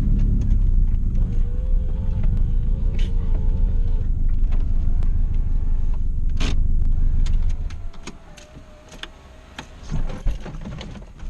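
1996 Toyota Celica's engine running under a heavy low rumble, with a wavering whine over it. The rumble drops away about three-quarters of the way through, leaving scattered clicks and knocks and one louder bump.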